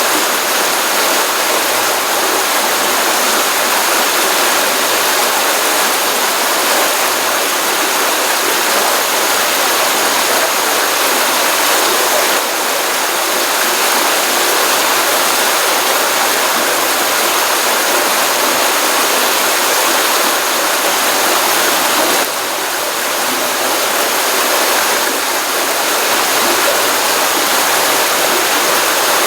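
Stream water from a pond running steadily: a continuous, even rush of flowing water, mostly hiss with little deep rumble.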